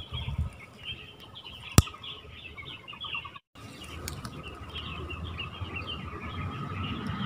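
Small birds chirping in the trees, with one sharp click a little under two seconds in.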